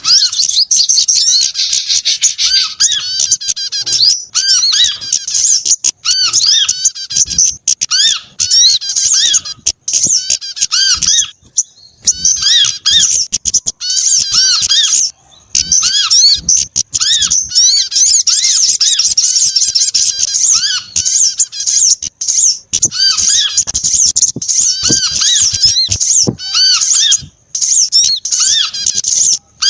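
A dense, loud chorus of small songbirds chirping and chattering in rapid high-pitched calls, with a short arching note repeating about once a second: a bird-lure recording mixing sogok ontong (sunbird), kemade, korlap and prenjak calls.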